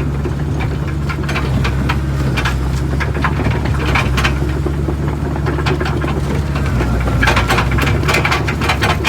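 Excavator's diesel engine running steadily, with scattered clanks and knocks over it that come thickest about seven seconds in.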